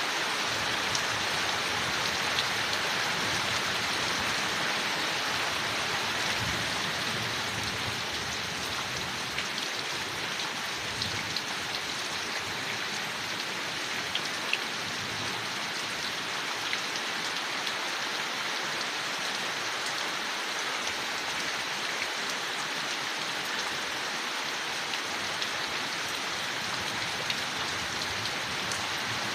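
Steady rain falling on leaves, an even hiss with scattered sharper drop ticks.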